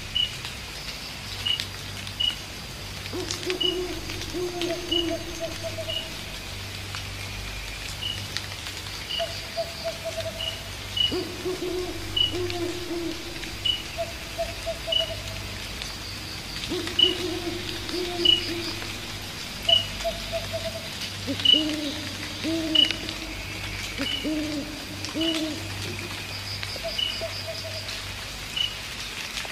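An owl hooting at night: low hoots in drawn-out runs every few seconds, then a quicker series of short hoots near the end. Under it, insects trill steadily and a high clicking call repeats about twice a second.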